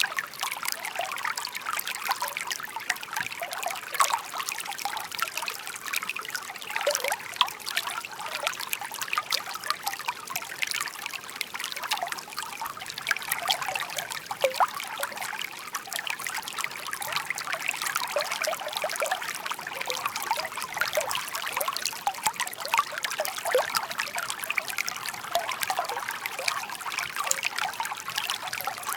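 Shallow park stream (seseragi) babbling and trickling over stones: a steady water murmur with many small, quick splashes and gurgles.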